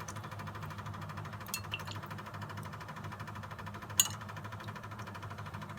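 A steady, rapid mechanical buzzing hum, with a few light clicks and one sharp knock about four seconds in.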